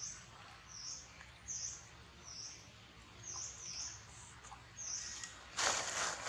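A bird repeating a short high call at a steady pace, about one every three-quarters of a second. Near the end comes a louder burst of noise lasting under a second.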